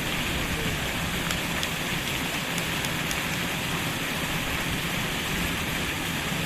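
Water jets of a fountain splashing down, a steady rushing hiss.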